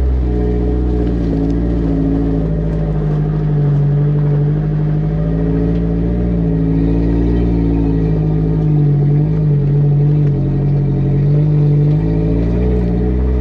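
Vehicle engine running while under way, its pitch rising and falling a little with the throttle, over a constant low rumble.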